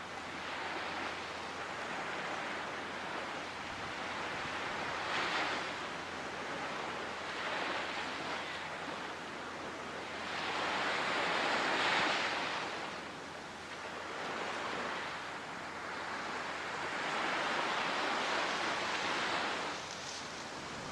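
Ocean surf: waves breaking and washing up the shore in slow surges, each swelling and fading over a few seconds, the loudest about halfway through.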